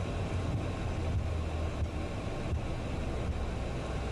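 Steady low drone inside a private jet's cockpit as it taxis after landing, with a constant low hum.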